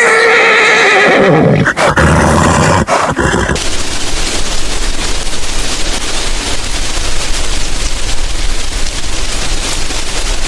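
A horse whinnying, wavering calls in the first few seconds, followed by a long stretch of steady, noisy hiss.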